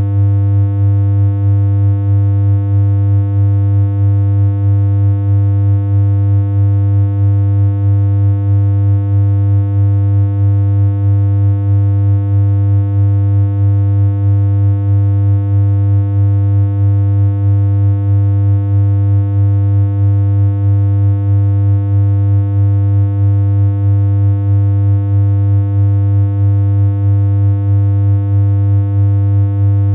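Steady synthesized electronic hum: a loud, unchanging low drone with a higher tone and a stack of buzzy overtones above it, pulsing slightly in level at a regular rate.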